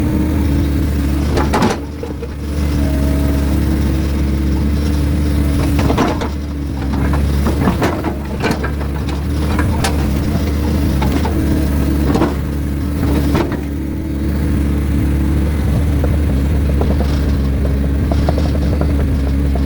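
Heavy diesel engine of an excavator running steadily, with about half a dozen sharp knocks and clunks spread through it, from logs being handled and dropped onto a truck bed.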